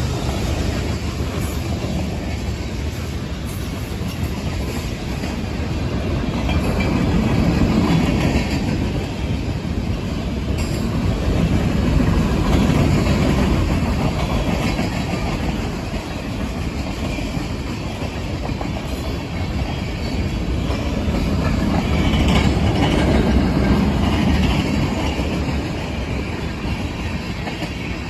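Mixed freight train's tank cars and hoppers rolling past: a steady rumble of steel wheels on rail with clickety-clack over the rail joints, swelling and easing every few seconds as the cars go by.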